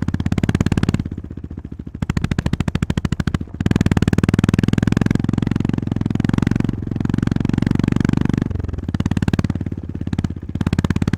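Honda GB350S air-cooled single-cylinder engine running on the road, a steady beat of firing pulses. The throttle comes off about a second in, then opens again, eases off once more near the end, and picks up again.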